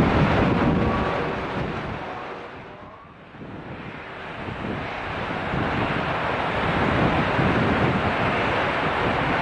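Jet airliner noise dying away with a faint falling whine, dipping about three seconds in, then a steady rushing hiss of heavy rain with wind on the microphone.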